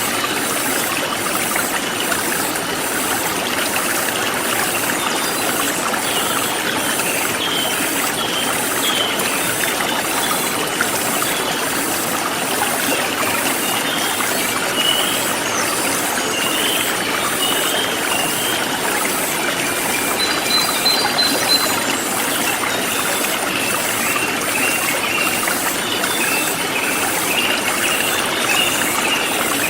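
Forest stream flowing steadily, with birds chirping briefly here and there and insects calling in high, evenly repeating pulses.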